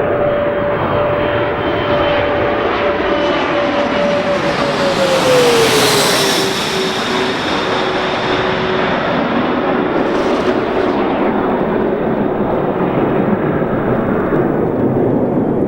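Mitsubishi CRJ-200 regional jet's two rear-mounted GE CF34 turbofans passing close by, a steady engine whine over jet rush. The whine drops in pitch as the jet goes past about five to six seconds in, where it is loudest.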